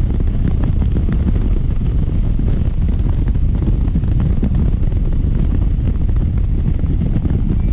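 Heavy wind buffeting on the microphone while riding a motorcycle at speed: a loud, steady, low rumble with no clear engine note.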